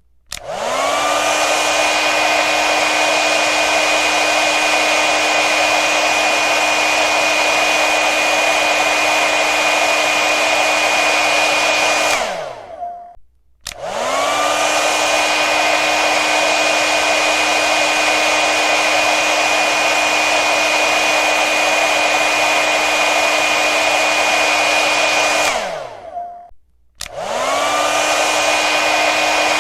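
Hair dryer blowing: a steady rush of air with a motor whine. It switches on and spins up, runs for about twelve seconds, then spins down with a falling whine and stops for a moment. It starts again, and this happens twice.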